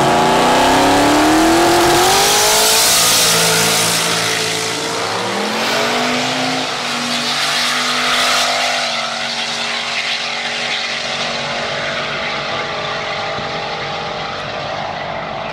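A drag car accelerating hard down the strip. The engine's pitch climbs steeply, drops, then climbs again about five seconds in as it shifts gear. It then holds a steady high note, growing quieter as the car pulls away.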